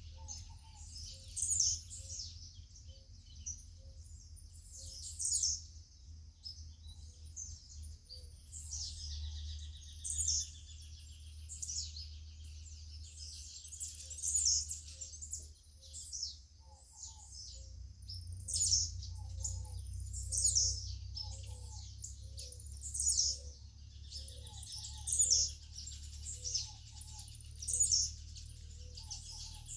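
Songbirds chirping and calling, with sharp high calls repeating every second or two and softer, lower calls between them, over a steady low rumble.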